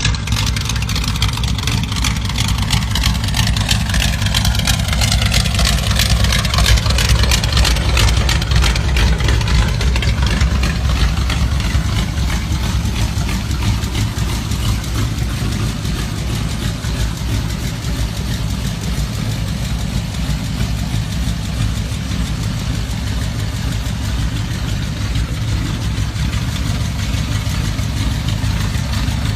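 Antique Ford pickup's flathead V8 idling steadily, with a low, even exhaust pulse.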